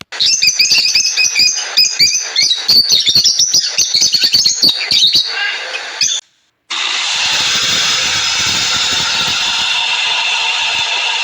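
Birds calling with rapid, short, high chirps for about six seconds. After a brief break, a dense, steady chorus of many calls takes over.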